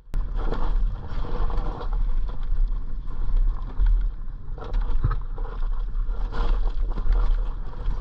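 Dirt bike engine running on a trail ride, mixed with heavy wind buffeting on the microphone; it starts abruptly and goes on unevenly.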